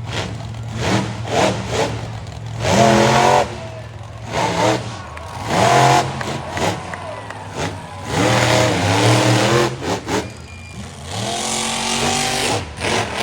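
Monster truck engine revving hard in four bursts, its pitch climbing and falling with each throttle blip, with sharp crackles in between.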